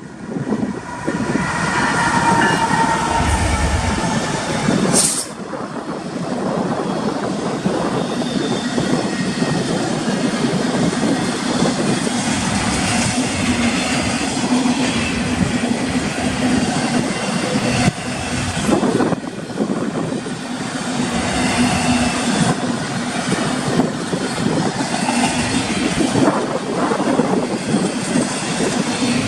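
Union Pacific intermodal freight train passing at speed: a steady, loud rumble and clatter of steel wheels on the rails.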